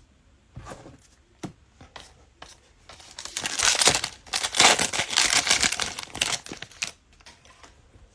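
A trading card pack's plastic wrapper being torn open and crinkled. A few light taps come first. About three seconds in there is a dense crinkling for about four seconds, which stops shortly before the end.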